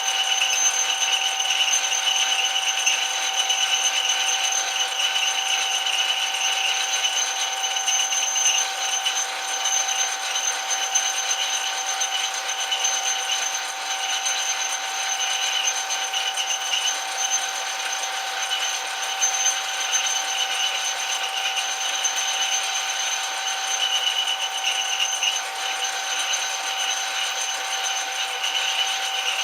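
Metal lathe running at a steady speed: a continuous, even mechanical whine with several fixed tones.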